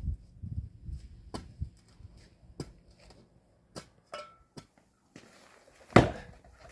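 Firewood being split: a few sharp wooden knocks, then one loud chopping impact with a short ring about six seconds in.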